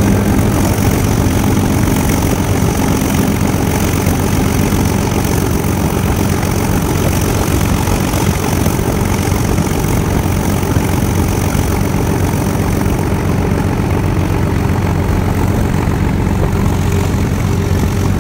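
A train running, heard from one of its carriages: a steady locomotive engine drone over a continuous rumble of the moving train, unchanging throughout.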